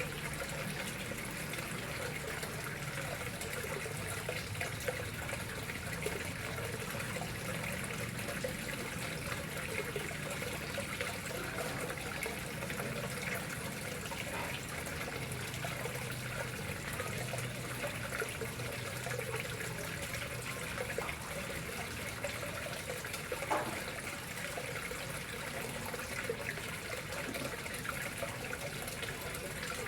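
Water running and trickling steadily into a koi pond, a continuous even splash.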